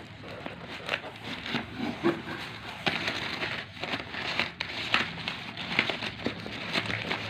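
Plastic packaging crinkling and rustling as it is unwrapped and handled, with irregular clicks and taps.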